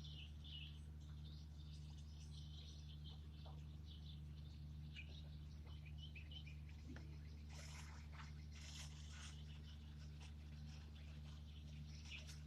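Faint outdoor ambience: scattered high bird chirps over a steady low hum, with a few brief rustling noises about eight seconds in.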